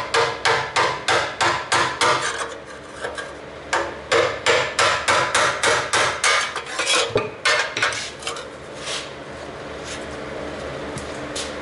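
Rapid hammer blows on metal, about four a second, in two runs with a short pause between. The strikes stop a few seconds before the end, leaving a steady hum.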